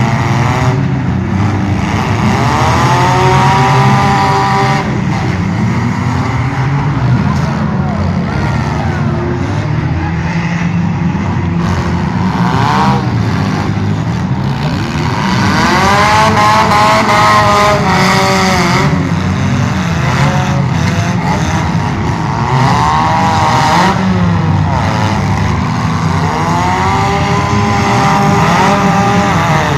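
Several demolition derby cars' engines revving hard, their pitch repeatedly climbing and falling over a second or two each, overlapping with one another above a constant low engine rumble.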